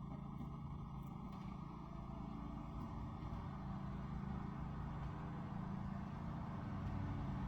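Steady low background rumble, getting a little louder near the end.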